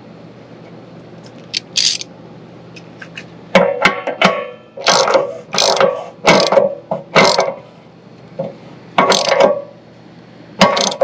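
Ratchet wrench clicking through a run of short strokes, about two a second, starting a few seconds in, as a new anode rod is tightened into an RV water heater tank. A faint steady low hum runs underneath.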